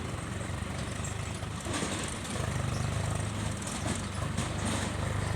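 Diesel engine of a Caterpillar 424B backhoe loader running steadily, rising in level and pitch about two seconds in as it takes on more throttle.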